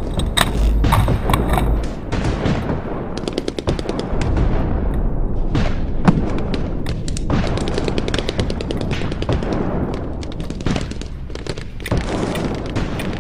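Airsoft electric guns firing full-auto: rapid rattling strings of shots, repeated through most of the time, with a low rumble underneath near the start.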